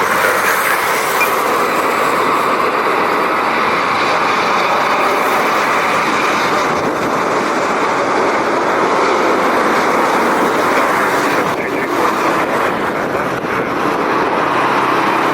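Steady roar of a Boeing 747-8 freighter's four GEnx-2B jet engines as it comes in to land.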